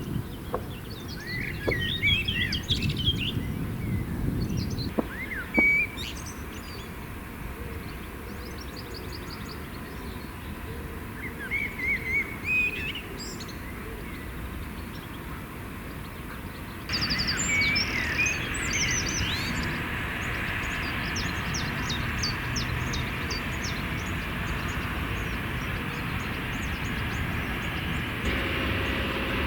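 Small birds chirping and trilling in short phrases over a steady low outdoor rumble. The background noise jumps up abruptly about two-thirds of the way through, and a steady hum comes in near the end.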